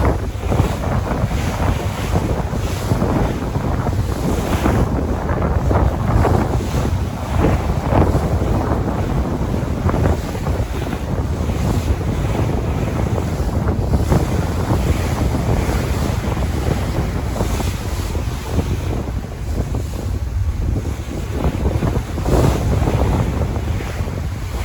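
Ocean surf with wind buffeting the microphone: a continuous rushing noise with a heavy low rumble that swells and eases.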